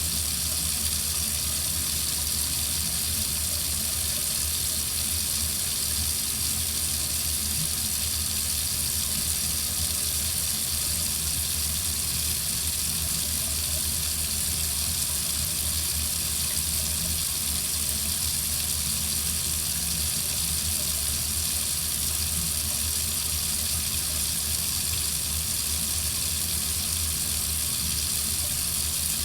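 Water faucet running steadily into a sink, an even hiss of splashing water with a low rumble underneath.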